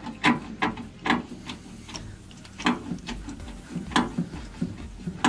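Irregular sharp clicks and light knocks, about a dozen, unevenly spaced, with the loudest about a quarter second in, about a second in, near three seconds and about four seconds in.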